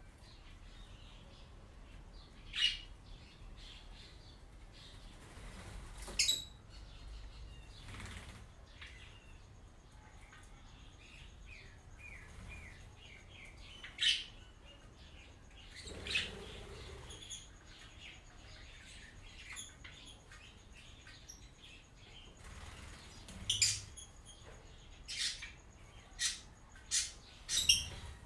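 Birds chirping in short, sharp calls, a few scattered through and several in quick succession near the end, over a faint steady background.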